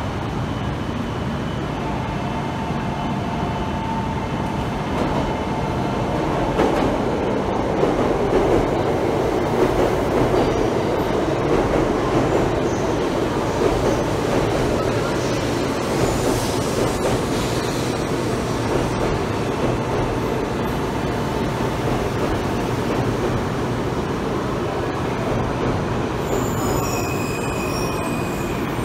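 Series 700 Shinkansen pulling into the platform and slowing: a steady rumble of wheels and running gear that grows loudest about seven to fourteen seconds in, then eases as the train brakes to a stop.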